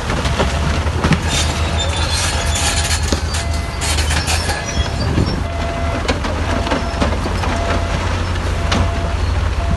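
Bulldozer engine running at a steady low drone, with a clatter of tracks and stones knocking and scraping that is busiest in the first half. A faint short beep repeats about once a second.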